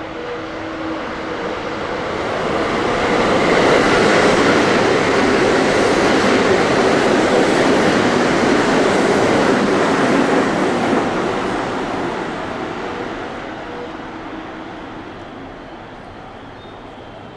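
A train passing through a station at speed without stopping: a rushing noise of wheels on rail that swells over a few seconds, stays loud for about seven seconds, then fades away.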